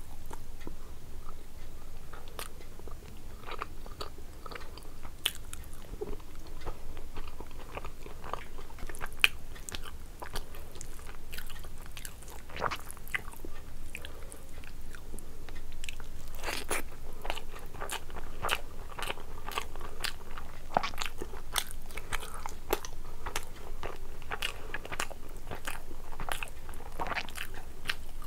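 Eating sounds: chewing and biting a mouthful of rice and curry, with frequent irregular wet clicks and smacks.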